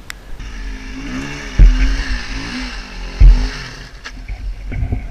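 Dirt bike engine revving hard in uneven bursts, the revs rising and falling as the rider throttles up a rock obstacle. Two heavy low thumps come about a second and a half apart.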